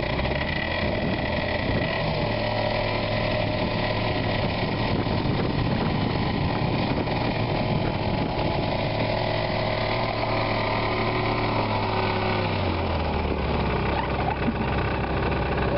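Car engine running steadily, with a low hum whose pitch steps down slightly about twelve seconds in.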